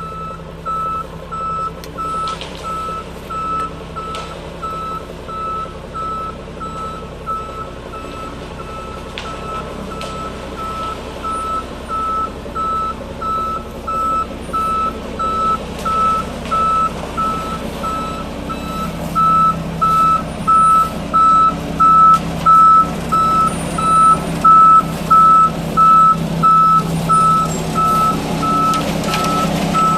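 Concrete mixer truck backing up: its reversing alarm beeps about once a second over the steady running of its diesel engine, both growing louder toward the end.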